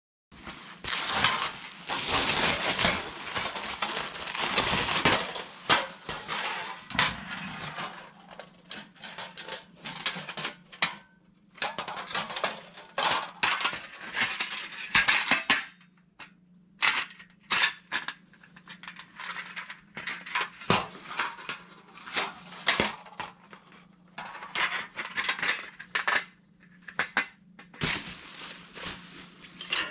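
Hard objects clattering and clinking as they are handled, with many separate knocks and scrapes; a faint steady hum sits underneath from about seven seconds in.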